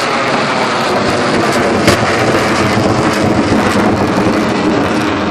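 Loud, steady jet noise from Blue Angels Boeing F/A-18 Hornets flying the formation loop, with one sharp click about two seconds in.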